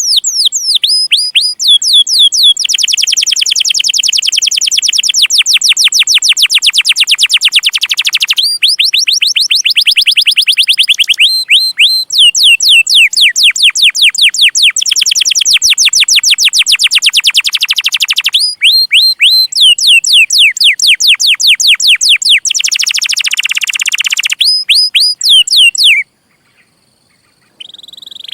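Domestic canary singing long rolls of rapid, evenly repeated downward-sweeping chirps, switching to a new note type every few seconds. The song breaks off suddenly near the end, and a different high, steady sound starts just before the end.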